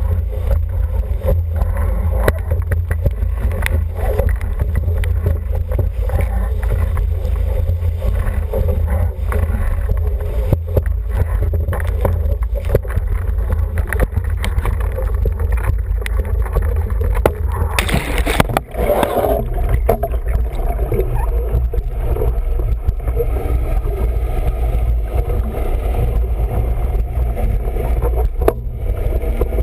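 Wind buffeting the microphone and water rushing along the hull of an International 14 sailing dinghy under way, steady and loud, with a brief sharper burst of noise about two-thirds of the way through.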